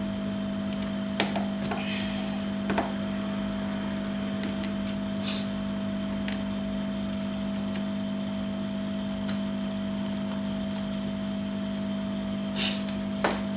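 A steady low electrical hum, with a few small, sharp clicks and taps from a screwdriver and tweezers on the phone's frame as the Xperia ZL2's back screws are taken out.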